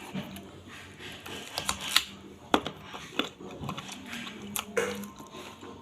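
Someone eating: biting and chewing noises with scattered sharp clicks and smacks, the loudest about two seconds in, over a faint steady hum.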